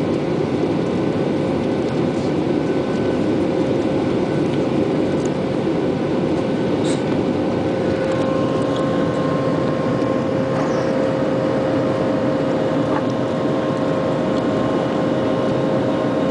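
Airliner cabin noise during the climb after takeoff: the engines and airflow make a loud, steady drone with a steady whine over it, and a second, higher tone joins about halfway through.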